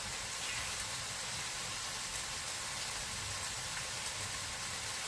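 Food frying in a pan, with a steady, even sizzle.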